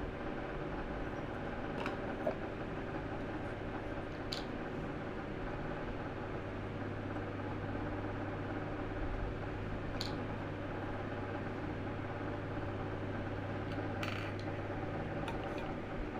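Small battery-powered handheld vacuum cleaner running steadily, its motor giving an even hum, with a few faint clicks.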